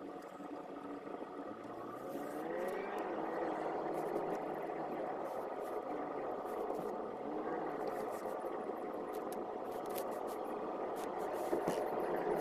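Car engine and road noise heard from inside the cabin while driving, getting louder and rising in pitch about two seconds in, with a steady hum throughout.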